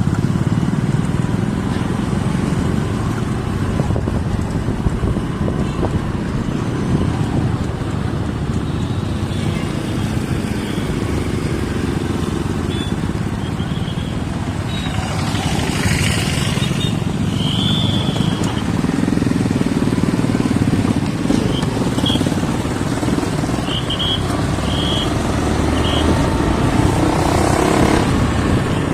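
Motorcycle running steadily on the road while being ridden, a continuous low rumble with a brief rush of noise about halfway through.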